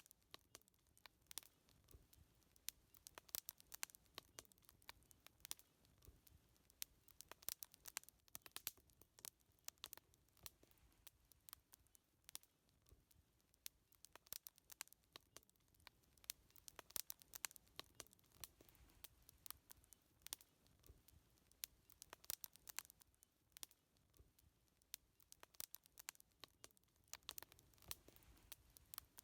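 Faint crackling of a burning wood fire: irregular sharp pops and snaps, sometimes several close together, over a quiet low hiss.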